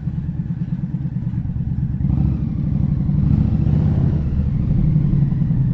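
Indian Scout Bobber's V-twin engine running with a rapid low pulse, getting louder about two seconds in.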